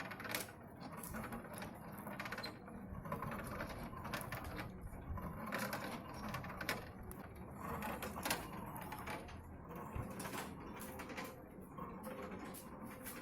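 Irregular metallic clicking and clanking of a hand-worked mechanism.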